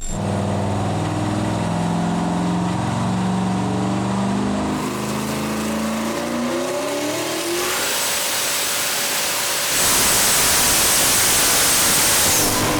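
Turbocharged LS V8 of a 2002 Pontiac Trans Am making a pull on a chassis dyno: the engine note climbs steadily in pitch for about seven seconds as the revs build, then gives way to a loud full-throttle rush with a high thin whine, loudest in the last few seconds.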